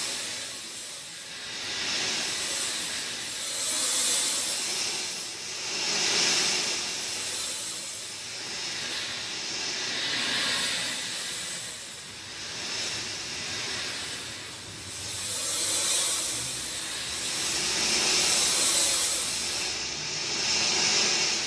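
Rain falling as a steady hiss that swells and eases every few seconds.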